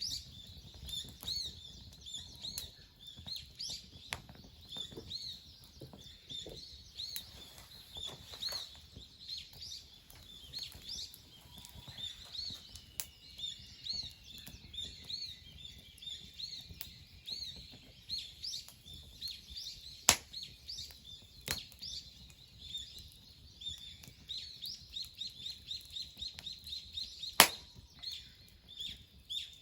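Small birds chirping over and over in short high notes, with another bird's gliding call in the middle. Three sharp snaps cut through, the loudest near the end.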